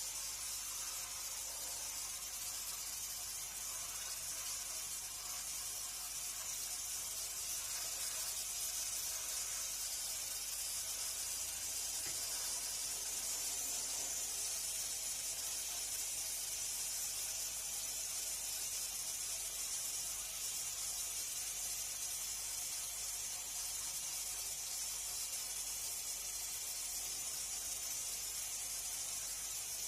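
A steady, unchanging high-pitched hiss.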